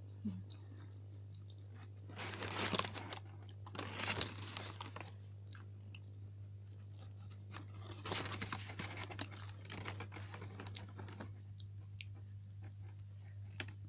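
Close-up biting and chewing of crispy fried chicken hot wings, the coating crunching in bouts about two seconds in, about four seconds in, and again from about eight seconds in. A steady low hum runs underneath.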